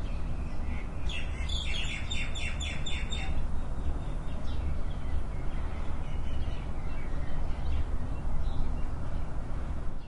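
Morning outdoor ambience: songbirds chirping, with a quick run of about eight chirps from about one to three seconds in, then scattered fainter chirps, over a steady low rumble.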